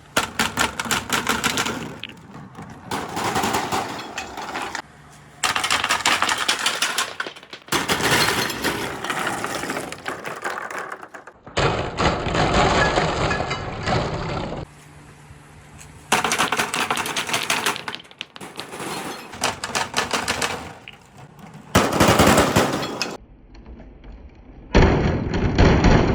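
Marbles rolling and clattering down a handmade marble run track: fast trains of clicks and rattles, in several separate stretches that start and stop abruptly, each a second or three long.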